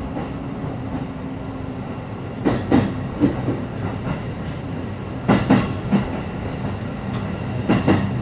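A JR East E531 series electric train running at speed, heard inside the passenger car: a steady rolling rumble. Three pairs of wheel clacks over the rail joints come about every two and a half seconds.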